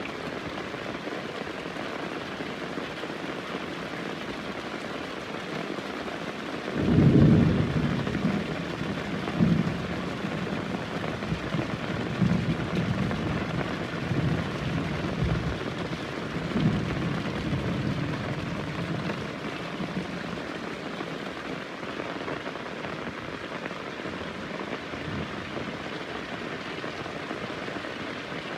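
Heavy rain falling steadily, with a roll of thunder that breaks out sharply about a quarter of the way in and rumbles on in several swells for over ten seconds before fading back into the rain.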